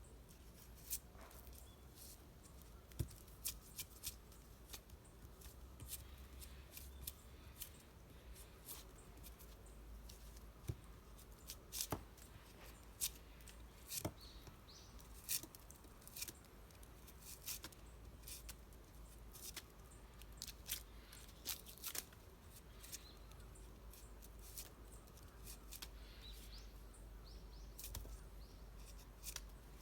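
Faint, irregular sharp clicks and ticks, a few every second, over a low background hum.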